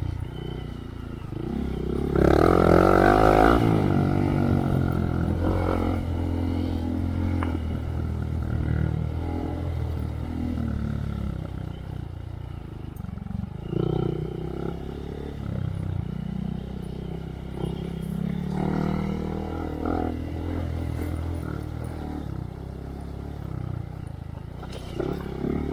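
Honda Monkey's 125 cc single-cylinder four-stroke engine through a Yoshimura RS3 exhaust with spark arrestor, riding along with revs rising and falling. The loudest moment is a rev-up about two seconds in; after that it runs at lower revs with a few smaller blips.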